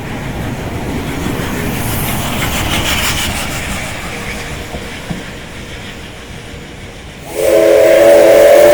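Train running on the rails with a low rumble, then about seven seconds in a departing locomotive's whistle sounds suddenly, a loud long blast of several tones at once that is still going at the end.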